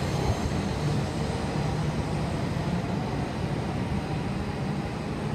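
Hayabusa–Super Komachi Shinkansen train pulling away from the platform: a steady low rumble with a hum, easing off slightly as it goes.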